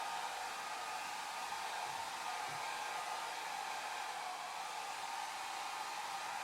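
Hair dryer running steadily: a continuous, even whooshing hiss of its fan and blown air.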